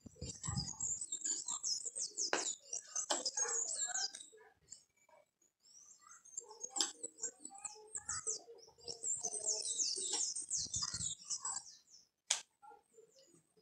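Small birds chattering in rapid high chirps, in two long spells of about four to five seconds each with a short lull between. There are a few sharp clicks, one standing out near the end.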